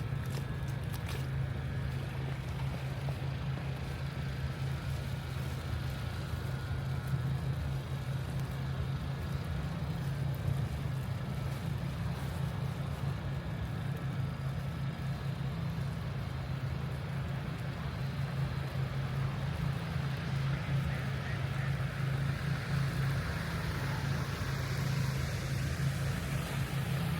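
City street traffic in a snowstorm: a steady low rumble of vehicles, with a hiss that grows louder near the end.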